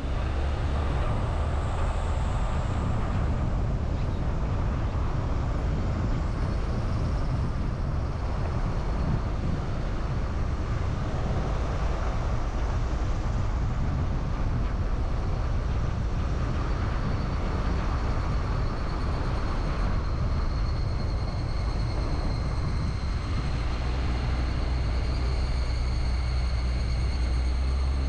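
Car driving along a road, heard from inside the cabin: a steady low engine and road rumble with tyre noise, continuing without a break.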